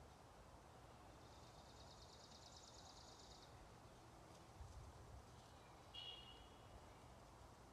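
Faint birdsong over low background noise: a rapid, even, high-pitched trill lasting about two seconds, then one short high call about six seconds in.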